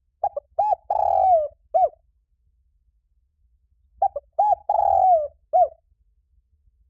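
Spotted dove cooing: two call phrases about two seconds apart, each a couple of short coos, a longer coo that falls in pitch, and one short closing coo.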